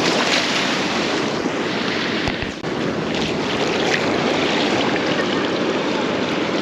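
Ocean surf washing up a beach with wind on the microphone, a steady rushing noise, with a short dip and a low bump about two and a half seconds in.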